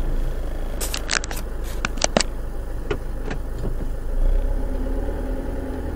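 Car engine idling while stopped, heard from inside the cabin. A quick run of sharp, irregular clicks comes about a second in, with a few single clicks around three seconds.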